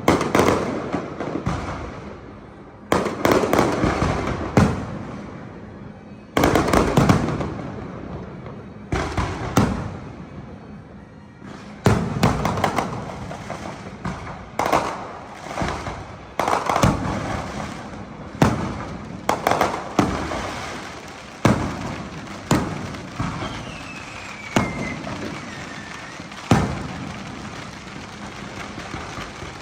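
Fireworks show: bangs going off one after another every one to three seconds, each followed by crackling that fades away, with a faint falling whistle late on.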